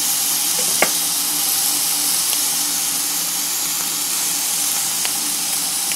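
Pre-cooked ham pieces browning in a frying pan, sizzling with a steady hiss; a single click a little under a second in.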